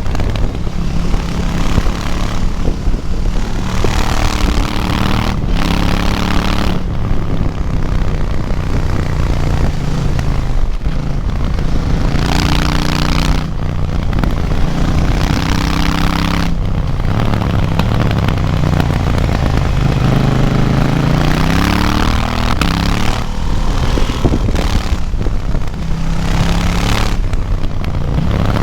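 KTM 790 Duke parallel-twin engine heard from onboard as the bike is ridden hard: revs climb through the gears, then drop as the throttle is closed and the rider shifts down for corners, and climb again. Wind rushes over the microphone, louder at speed.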